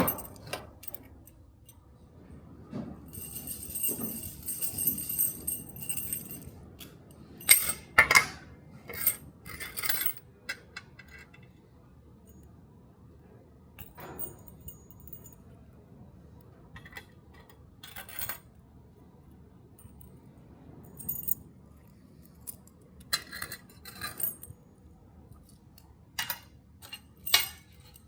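Metal keys jangling and clinking as they are handled and set down, a ringing jingle about three seconds in, then scattered sharp clinks, loudest around eight seconds in and again near the end.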